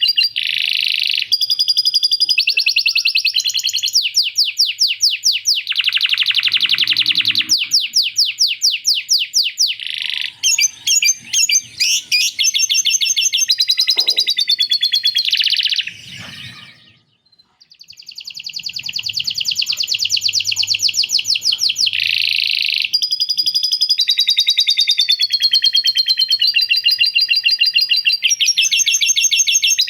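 Male canary singing a long, loud song of fast trills and rolls, switching to a new run of repeated notes every second or two, with phrases copied from a lovebird's chatter. It breaks off briefly a little past halfway and then carries on singing.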